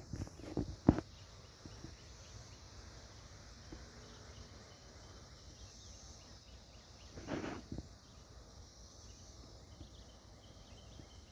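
Insects, crickets, chirring steadily in the background, with a few sharp knocks in the first second and a short louder noise about seven seconds in.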